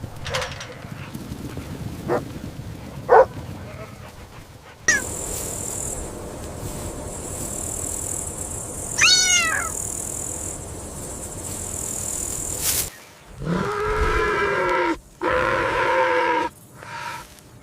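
Animal calls from a string of short clips, including kitten meows: two drawn-out meows near the end, after a few shorter calls.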